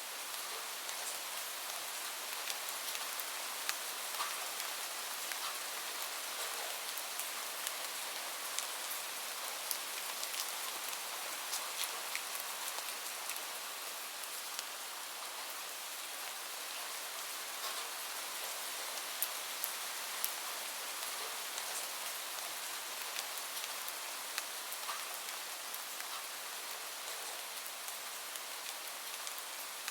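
Steady rain falling as an even hiss, with scattered sharp ticks and pops throughout.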